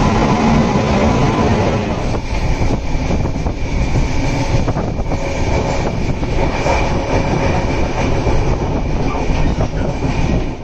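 Passenger train running on rails. First comes the noise of a train moving along a station platform; then, from about two seconds in, the steady running noise inside a moving coach, with irregular clicks of the wheels over the track.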